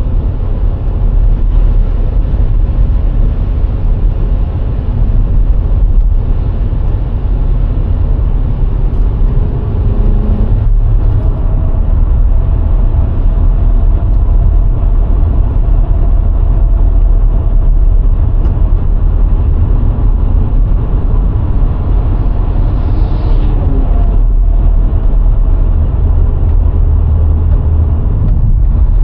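VW Golf IV 1.6 driving at speed: a steady low rumble of tyre and wind noise with the engine's hum underneath. The engine's pitch shifts about ten seconds in and again a little past twenty seconds.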